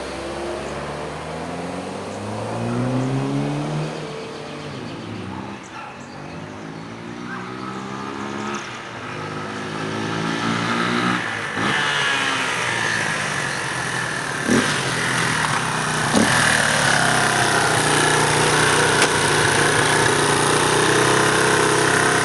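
2005 United Motors UM 200 dual-sport motorcycle's small engine revving, its pitch climbing and dropping again several times as it picks up speed through the gears, then running at a steadier, louder pitch for the last third, with a couple of sharp clicks just before.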